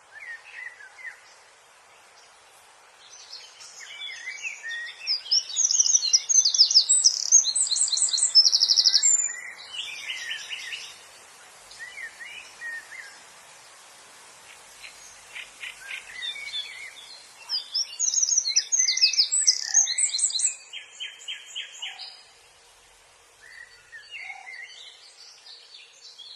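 A small bird singing: varied phrases of quick high chirps and trills, in two louder bouts with quieter stretches of song between.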